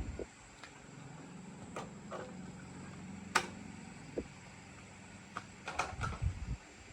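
Scattered sharp clicks and light knocks over a steady low hum, with one louder click about three and a half seconds in and a quick cluster of knocks near the end.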